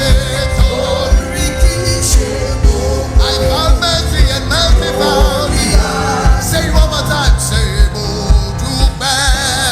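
Live gospel worship music: a singer's voice with vibrato over a band with a steady bass-drum beat.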